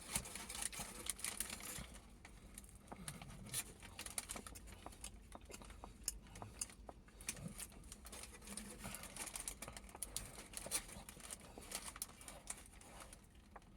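Close-up eating of a döner kebab: chewing, with a busy run of small irregular clicks and rustles.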